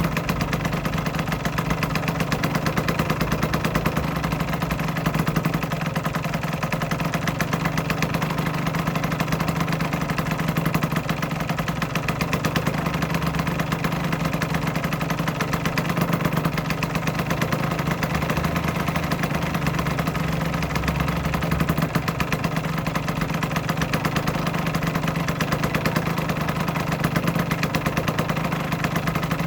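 Aprilia RS125's single-cylinder two-stroke engine idling steadily, a fast, even run of firing pulses.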